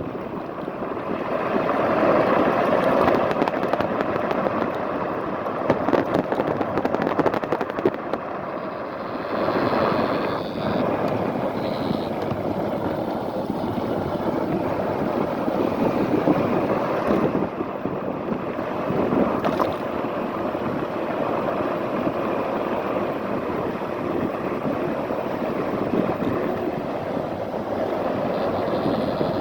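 Wind buffeting the microphone and tyre and road noise from a fat-tyre electric scooter being ridden, with a few short knocks as it goes over bumps.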